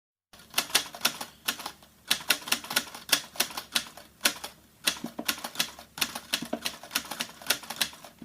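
Typing sound effect: quick, irregular key clicks, about four to six a second, in runs with short pauses about 2, 4.5 and 6 seconds in, cutting off abruptly at the end.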